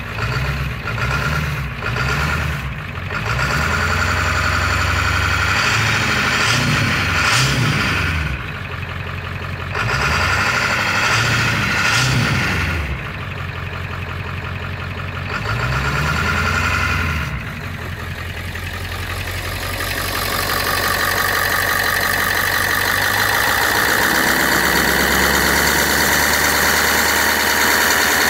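Ford 7.3 Power Stroke V8 turbodiesel in an E-350 van running in −8 °C cold, its pitch rising and falling several times. For the last third it settles into a steadier sound with a higher whine and hiss.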